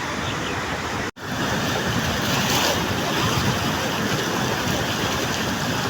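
Mountain river water rushing steadily, a dense, even noise, broken by a split-second gap about a second in.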